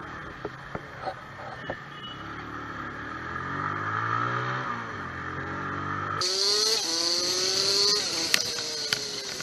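Vehicle engine running, its note rising and falling with road speed. About six seconds in it cuts abruptly to a different recording of a higher-pitched engine note that climbs in steps, with a few sharp clicks near the end.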